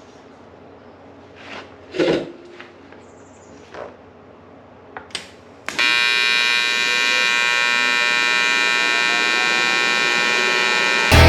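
A few knocks and clicks, then about halfway through a stick-welding arc strikes and runs with a loud, steady buzz on the intercooler tubing. Guitar music cuts in right at the end.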